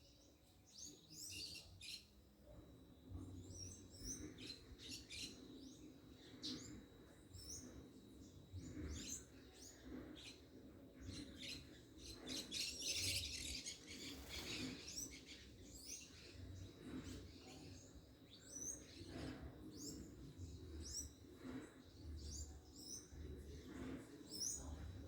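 Small birds chirping: many short, high calls and quick glides throughout, thickest in a burst around the middle, over faint low thuds.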